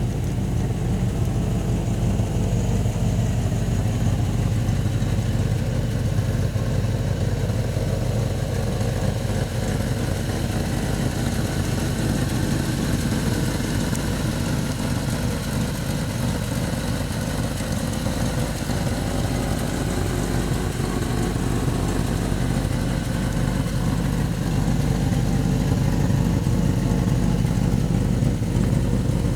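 1955 Plymouth Belvedere's original V-8 engine idling steadily, with a low, even pulsing beat.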